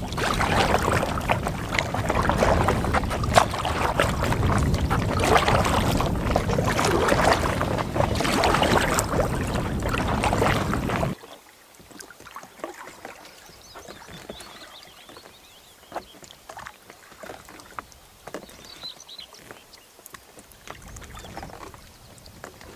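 Kayak paddling in strong wind: wind noise on the microphone and paddle strokes splashing water. About eleven seconds in it cuts off suddenly to much quieter water with scattered light splashes and drips.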